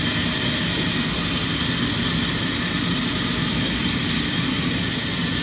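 Sawmill machinery running steadily, a continuous low drone with a hiss over it.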